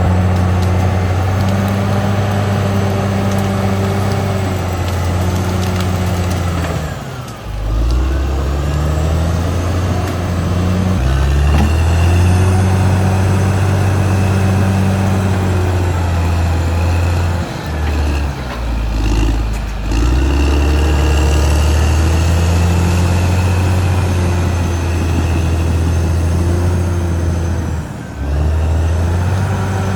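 Caterpillar D6R XL bulldozer's diesel engine working under load, easing off and picking back up about seven seconds in, again around eighteen to twenty seconds, and near the end. A faint high whine rises over the engine in between.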